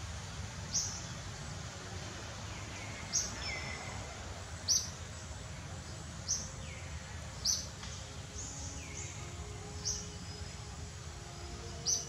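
A bird repeating a short, sharp, high call about seven times, every one to two seconds, some calls trailing off in a falling note, over a steady low rumble of background noise.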